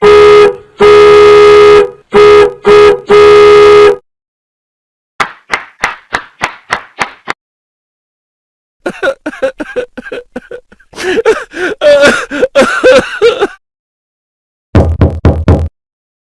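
A string of separate comedy sound effects. It opens with a horn honking five times, one longer blast among shorter ones, then a run of about ten quick knocks. A wavering pitched effect with clicks follows, and near the end comes a short low buzz.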